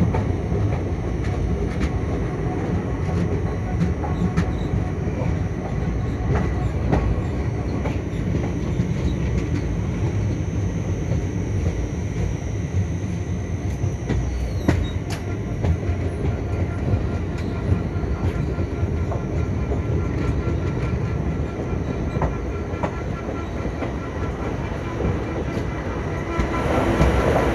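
Passenger train running on the track, heard from on board: a steady rumble with scattered clicks of the wheels over the rails. It grows louder near the end.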